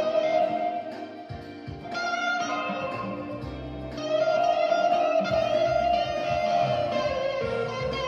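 Electric guitar music: long held lead notes that bend slightly in pitch, over a low bass line.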